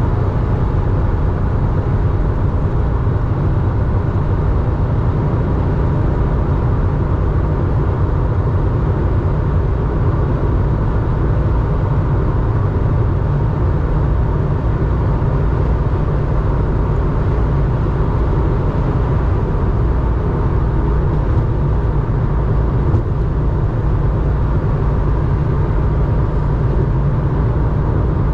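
Porsche 911's air-cooled flat-six, enlarged to 3.4 litres and breathing through a two-in, one-out muffler, running at a steady cruise with road noise, no revving or gear changes.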